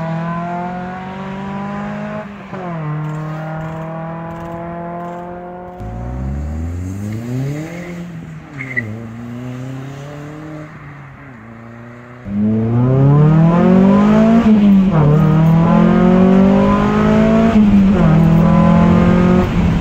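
A Honda Prelude accelerating hard away from the roadside, its engine pitch climbing and dropping at the upshifts as it fades into the distance. Then a Volkswagen GTI pulling away the same way, fainter. About twelve seconds in comes a much louder car engine heard from inside the cabin, revving up hard through the gears with several upshifts.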